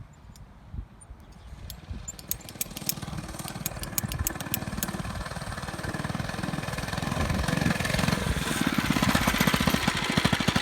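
Mini bike's small engine running and growing steadily louder as the bike approaches, with a run of sharp ticks about two to five seconds in.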